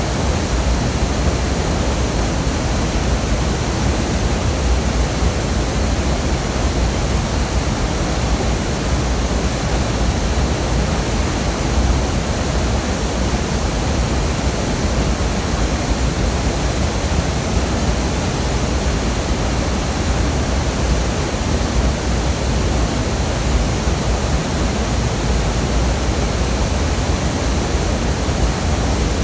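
Longdang Waterfall crashing with a loud, steady, unbroken roar of falling water, heaviest in the low end.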